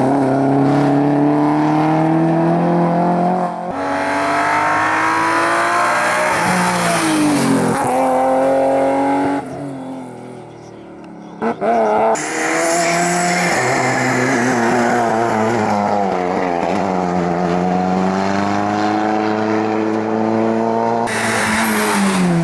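Rally cars' engines at full throttle, revving up and falling back as they change gear, in several short passes cut one after another. There is a short quieter gap about ten seconds in, ended by a sudden loud burst.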